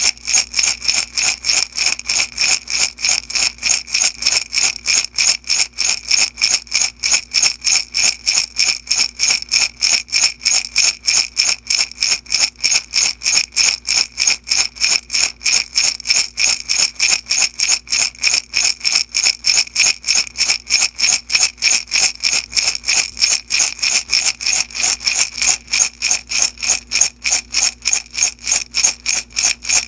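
Small beads shaken steadily in a glass jar, a fast, even rhythm of rattling strokes with a glassy ring on each shake.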